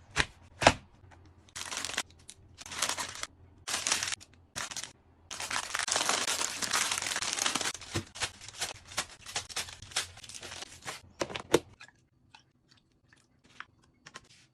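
Packaging crinkling and tearing in several short bursts, with one longer stretch of about three seconds starting about five seconds in, then scattered light clicks and taps.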